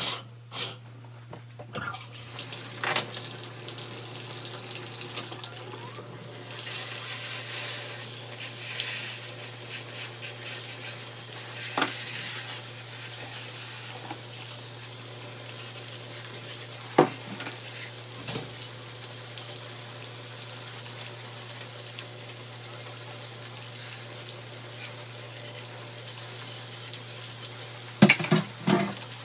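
Bathroom tap running steadily while plastic fan parts are rinsed and scrubbed under it, with a few sharp knocks of the parts against the basin, several close together near the end. A steady low hum underneath.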